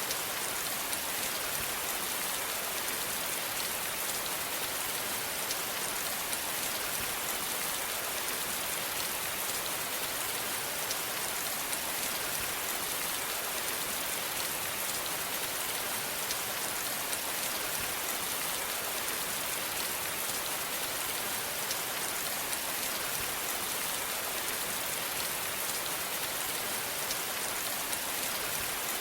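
Steady rain falling, a constant hiss of many fine drops pattering on a surface.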